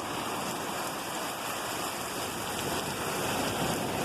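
Steady rushing hiss of ocean surf washing up the beach, mixed with rain falling, with no single wave crash standing out.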